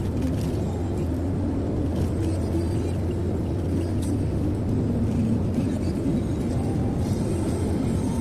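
Steady low rumble of a car driving at speed, heard from inside the cabin: engine and tyre noise.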